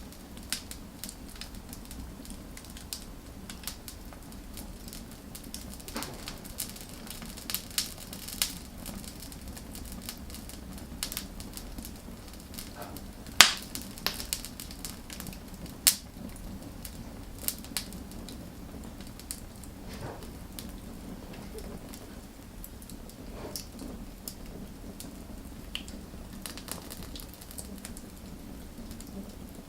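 Wood fire crackling, with irregular sharp pops and snaps over a steady low hiss; the loudest pop comes about thirteen seconds in.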